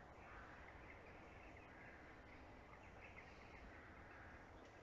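Near silence: faint bird chirps over low background noise.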